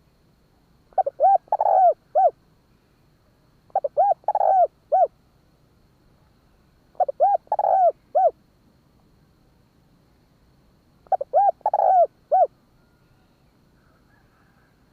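Spotted dove cooing: four phrases, each a quick run of short hooting coos with one longer note in the middle, a few seconds apart.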